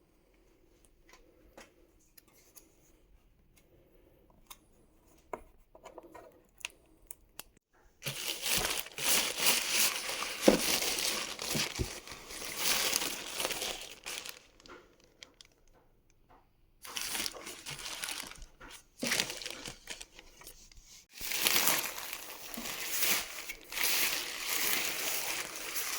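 Packaging being handled: crinkling and tearing of wrapping with sharp clicks and handling knocks. A few faint clicks come first, then loud, continuous rustling starts about eight seconds in and runs in long stretches broken by brief pauses.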